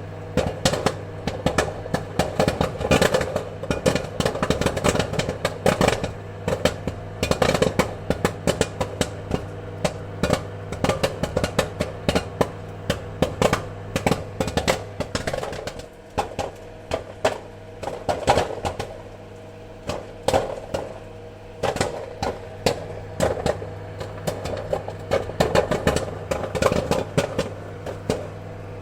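Popcorn kernels popping in quick, irregular sharp pops over a steady low hum. The popping thins out for a few seconds a little past the middle, then picks up again.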